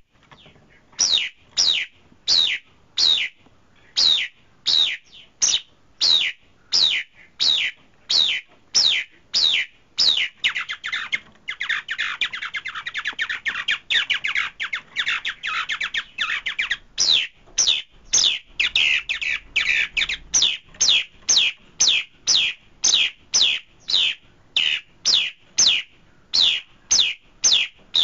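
A bird calling: a sharp, high note sweeping downward, repeated about twice a second, with a fast, dense run of chattering in the middle.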